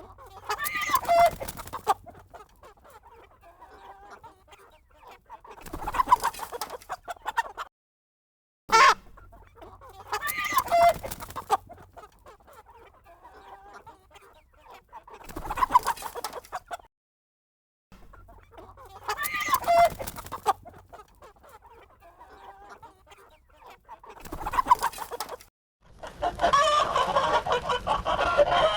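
Chickens clucking and roosters crowing, with loud calls about every four to five seconds and quieter clucking between them. Twice the sound cuts out for about a second, and the same stretch of calling seems to repeat. Near the end it turns into a denser, continuous run of clucking and squawking.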